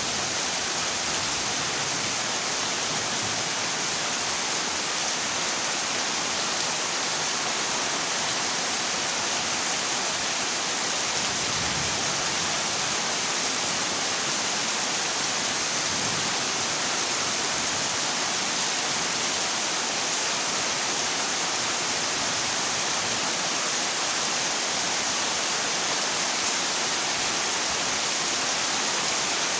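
Heavy rain falling steadily on a corrugated zinc roof: a dense, even hiss with no let-up.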